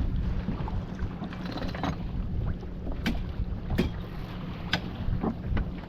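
Sailboat under way: wind buffeting the microphone over the steady rush of water along the hull, with a few brief sharp hits about three to five seconds in.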